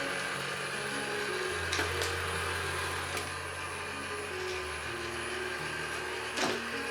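Vacuum cleaner motor running steadily, with background music and a few light clicks over it.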